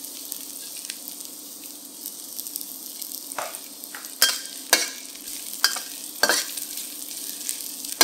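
Chopped garlic and ginger slices sizzling in hot oil in a wok. From about three seconds in, a metal spatula scrapes and knocks against the wok about six times as they are stirred.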